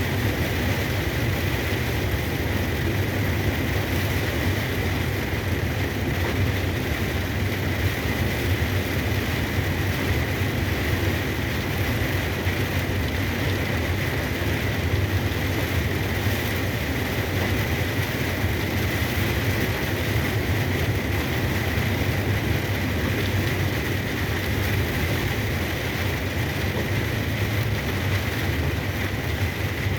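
Cargo truck driving on a wet road in heavy rain, heard from inside the cab: a steady low engine and road drone under the hiss of rain and tyre spray, with a thin steady whine. It does not change.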